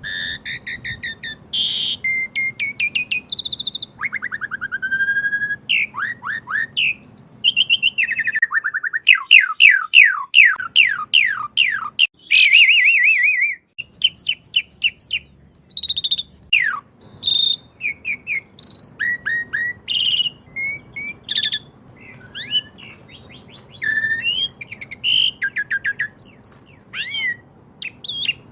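Asian pied starling (jalak suren) singing a long, varied song: whistled notes, fast repeated chips, a run of quick sweeping notes near the middle and a buzzy trill.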